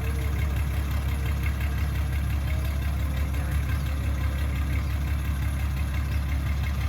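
Excavator's diesel engine running steadily at idle, a low, even drone with a fast pulse.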